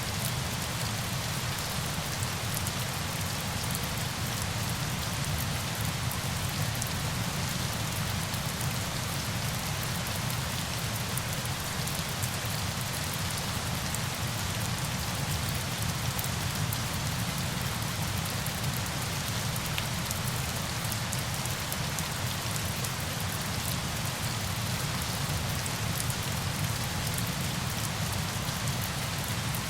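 Steady falling water: an even hiss with a fine patter of drops over a low rumble, unchanging throughout.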